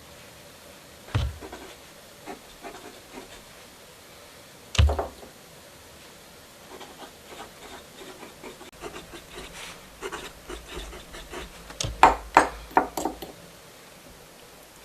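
Desk-work handling sounds while writing in a nature journal: light scratching and rubbing on paper, two dull thumps of things set down on a wooden desk, and a quick run of clicks and taps near the end.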